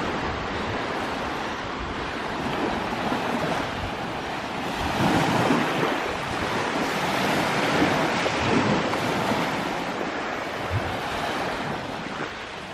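Sea waves washing onto the beach, swelling louder around the middle, with wind buffeting the microphone.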